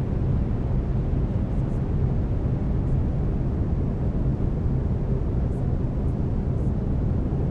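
Steady brown noise: a deep, even rumbling hiss, with a faint low steady tone from the binaural-beat layer beneath it.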